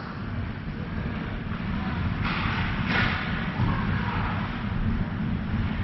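Ice hockey rink ambience during a game: a steady low rumble of the arena, with a brief hissing burst a little over two seconds in.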